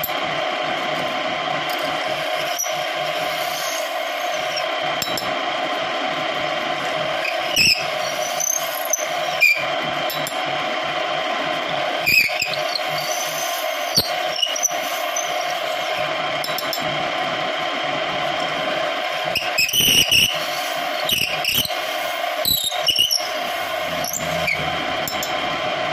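Homemade wood lathe running steadily, its motor giving a constant hum, while the turning chisel scrapes the spinning wood in short sharp bursts with brief high squeals several times.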